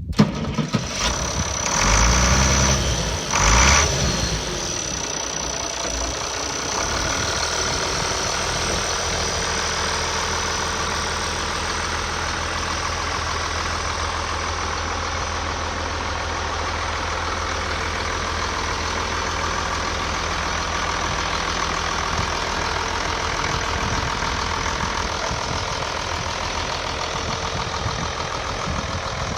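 1972 International Harvester 966 tractor engine, with two loud surges in the first four seconds, then idling steadily.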